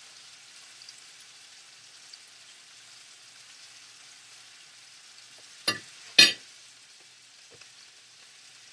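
Kitchen sounds: a steady high hiss, with two sharp knocks about half a second apart a little over halfway through.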